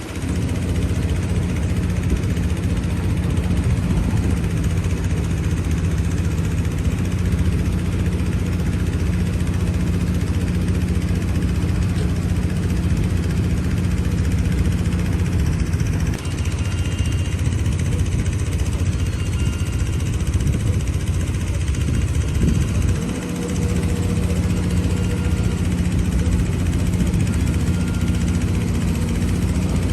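Heavy diesel engine of earthmoving machinery running steadily, its note shifting about halfway through and dipping briefly a little later.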